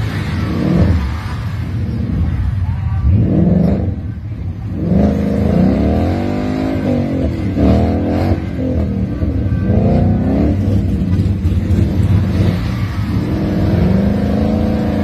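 Car engines revving hard, rising and falling in pitch again and again, under heavy load as a Ford Mustang tries to tow a Chevrolet Silverado pickup stuck in mud out on a tow strap.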